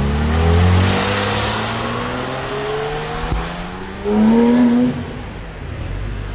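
Performance car engine accelerating away hard, its pitch climbing in several rises as it shifts up through the gears, with a louder stretch about four seconds in.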